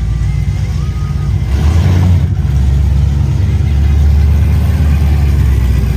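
A car's engine and exhaust rumbling, getting louder about a second and a half in and staying loud.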